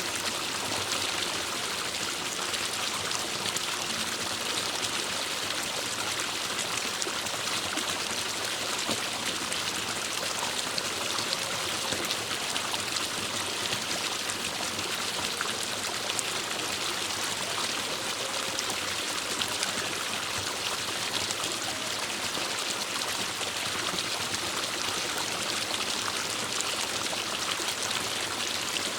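Forest stream running steadily: an even, unbroken rush of water over rocks.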